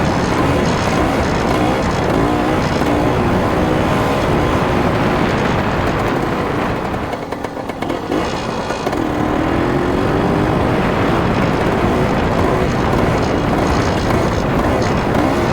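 Dirt bike engine being ridden, its pitch repeatedly rising and falling as the throttle is worked, easing off briefly about halfway through before picking up again.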